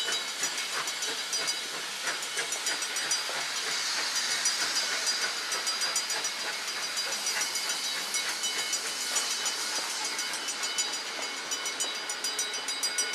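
Steam train passing: a steady hiss of steam over the rolling noise of the locomotive and carriages going by.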